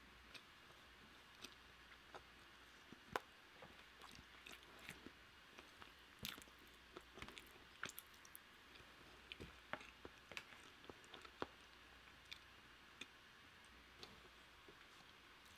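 Faint eating sounds of one person chewing soft food: scattered wet mouth clicks and smacks at an irregular pace, a sharper click about three seconds in.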